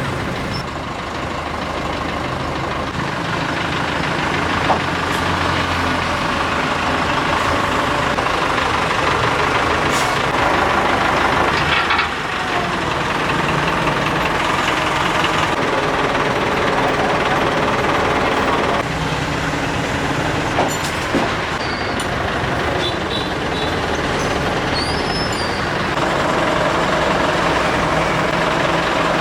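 A heavy engine runs steadily, its note changing several times, with a few sharp knocks along the way.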